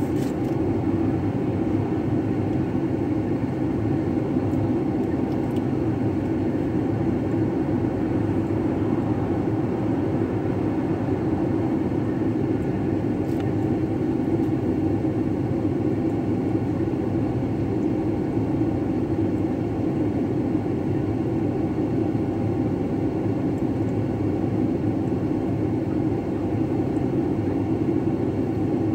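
Car engine idling steadily while the car is stopped, heard from inside the cabin as a low, even rumble.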